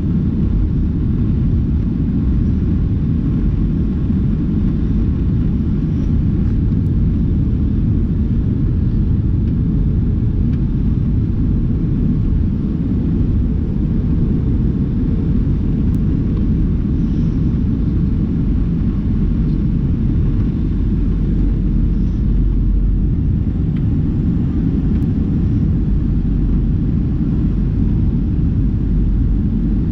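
Steady low rumble of an Airbus A319 airliner heard from inside the cabin at a window seat, even in level throughout.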